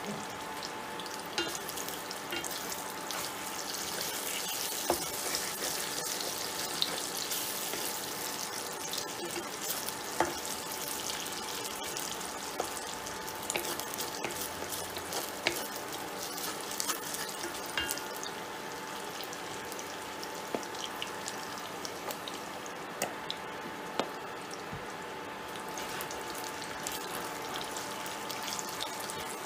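Chicken pieces sizzling in hot oil in a cast iron wok, with scattered ticks and scrapes as a wooden spatula stirs them against the iron. Under it runs a steady hum from the induction cooktop heating the pan.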